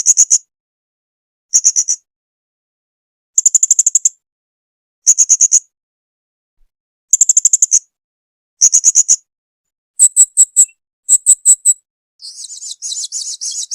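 Blue-crowned hanging parrot (serindit) calling: short bursts of rapid, very high-pitched chirps every second or two, with silence between. Near the end the chirps turn into a denser, buzzy twitter.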